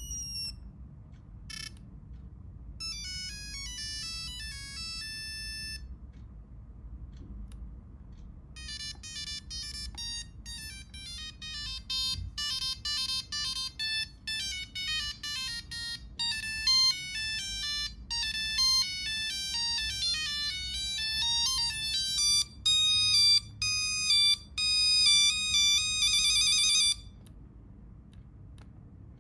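Nokia 3310 playing its monophonic ringtone melodies in single beeping notes. A short beep comes about a second and a half in, then a brief tune, then after a pause a longer tune that cuts off suddenly near the end.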